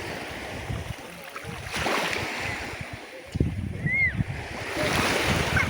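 Sea water washing and splashing in surges, with wind buffeting the microphone. About four seconds in there is a short high squeak that rises and falls.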